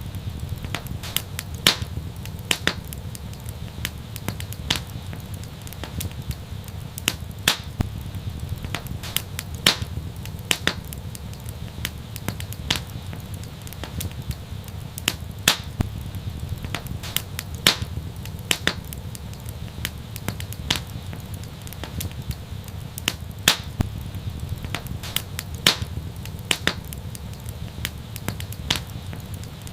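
Wood fire crackling: irregular sharp pops, a few each second and some louder than others, over a steady low rumble of burning.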